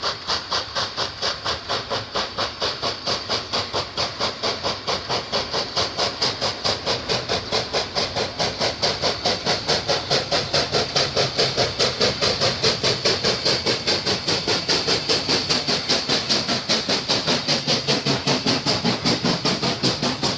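USATC S160 2-8-0 steam locomotive No. 5820 working under steam, its exhaust beating steadily at about four chuffs a second with a hiss of steam. The beats grow somewhat louder toward the middle.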